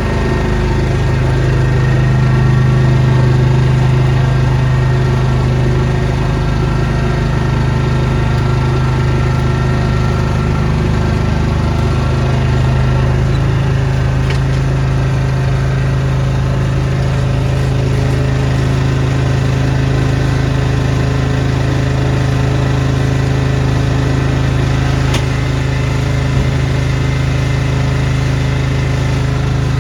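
Snowblower's small engine running steadily, its pitch shifting slightly about 13 seconds in.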